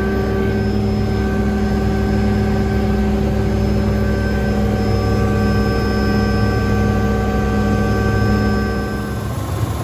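Small helicopter running steadily in flight: a steady engine and rotor drone with several whining tones held at constant pitch. About nine seconds in, the whine drops away and the sound turns quieter and rougher.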